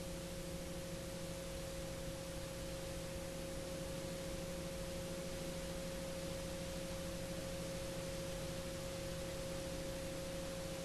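Garrett TPE331 turboprop engines running steadily at cruise power, a constant whine of a few held tones over an even hiss.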